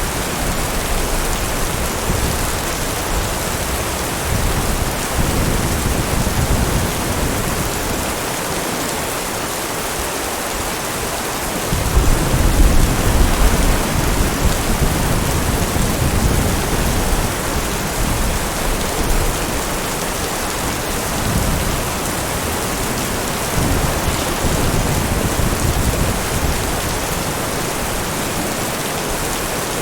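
Heavy rain falling steadily, with low rolling thunder that swells and fades, loudest about twelve seconds in.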